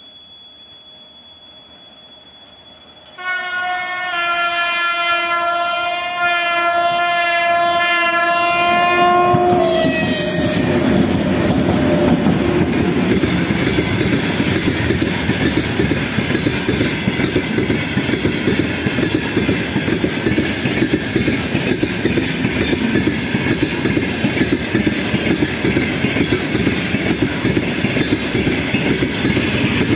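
3ES4K electric freight locomotive sounding its horn in one long blast, about three seconds in, lasting some six seconds and dropping in pitch as it passes. The long freight train then rolls past with steady rumbling and wheel clatter over the rail joints.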